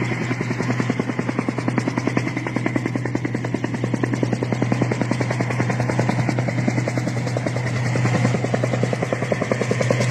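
Helicopter running close by: its rotor blades chop in a fast, even beat over a steady engine hum.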